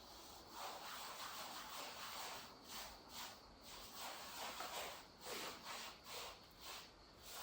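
Paintbrush scrubbing paint onto rough, pitted concrete, a faint rasping swish in quick strokes about twice a second.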